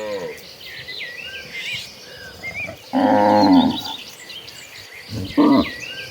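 Cows mooing: a moo fading out at the start, a loud moo about three seconds in, and a short call near the end, with faint high chirping in the background.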